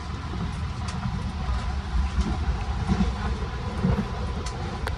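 Long Island Rail Road commuter train running, heard from inside the car: a steady low rumble of the wheels on the track, with a few sharp clicks and a faint steady high tone.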